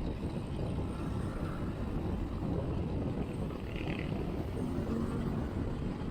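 Steady low rumble of riding a road bike, heard from a chest-mounted action camera: wind on the microphone mixed with tyre and road noise. There is a brief faint higher sound about four seconds in.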